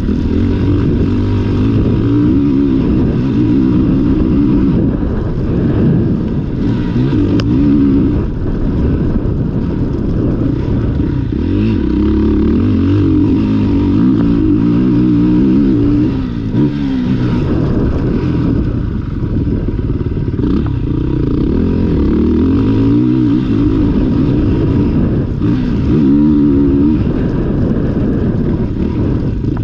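Motocross dirt bike engine ridden hard round a track, revving up and dropping off over and over as the rider accelerates, shifts and backs off, its pitch climbing and falling every second or two.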